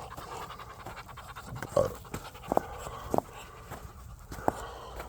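A dog panting, with a few short knocks about two, two and a half, three and four and a half seconds in.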